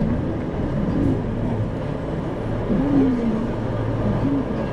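Isuzu Erga city bus (2RG-LV290N4) heard from inside the passenger cabin while driving: its diesel engine's hum under steady road noise.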